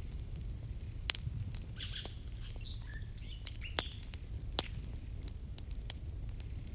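Outdoor ambience: a small bird twittering for a couple of seconds from just under two seconds in, over a steady low rumble with scattered sharp clicks.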